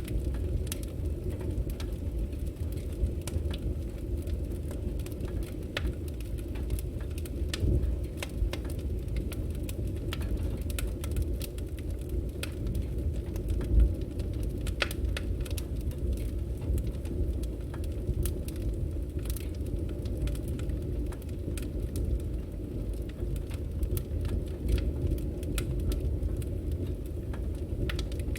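Firewood burning: a steady low rumble of flames with frequent sharp crackles and pops scattered irregularly throughout, one louder pop about halfway through.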